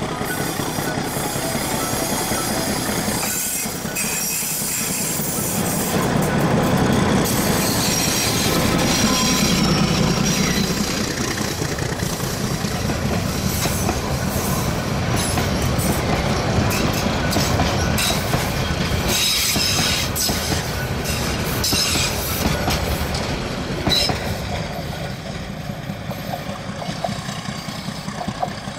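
Metre-gauge passenger train (ALCO/MLW DL535A diesel locomotive and coaches) rolling past close by on a curve: wheels clattering over the rail joints with high squeals from the wheels, loudest in the middle and easing off near the end as the train moves away.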